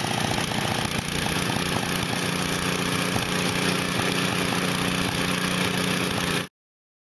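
A 5-horsepower snowblower engine running steadily and loudly, then cutting off abruptly about six and a half seconds in.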